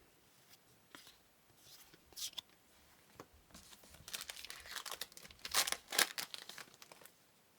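Crinkling and tearing of a trading-card pack wrapper, a short rustle about two seconds in, then a longer stretch of crackling near the end.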